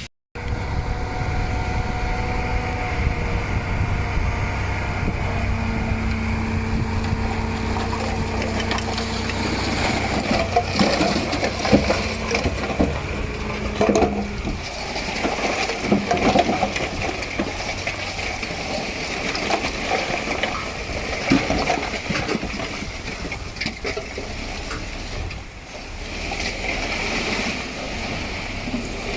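Diesel engine of heavy earthmoving machinery running steadily, with a run of clanks and knocks in the middle as dirt and rock are worked.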